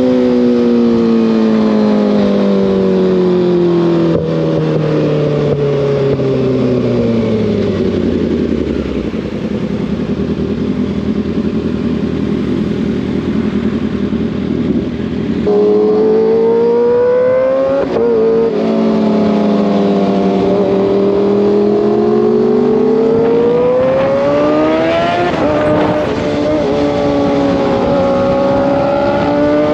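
Kawasaki ZX6R inline-four motorcycle engine under way: the revs drop steadily for about nine seconds as the bike slows, hold rough and even for several seconds, then climb, ease off and climb again, with a gear change near the end.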